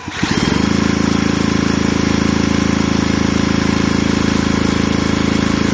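Power drill spinning a Stihl 028 chainsaw's flywheel through a socket extension, turning the engine over steadily to test the ignition spark after its breaker points were cleaned. The drill comes up to speed just after the start and runs at a steady pitch.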